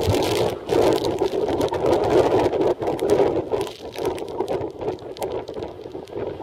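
Typhoon wind gusting and buffeting the microphone, swelling and easing rather than blowing evenly; the gusts are strongest in the first few seconds and ease after about four seconds.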